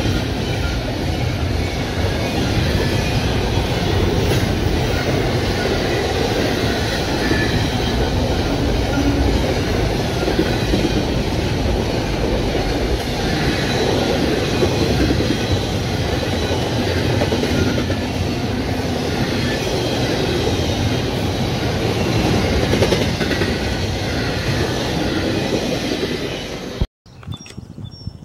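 Double-stack intermodal freight train rolling past, a continuous noise of its well cars' steel wheels on the rails. The sound cuts off abruptly near the end.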